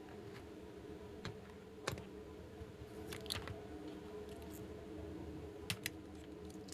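Sparse light clicks and taps of small plastic toy pieces being handled, with two sharp clicks in quick succession near the end, over a steady low hum.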